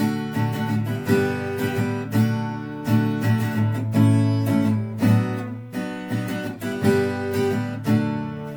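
Instrumental music: an acoustic guitar strumming chords, with a strong strum about once a second and lighter strokes between.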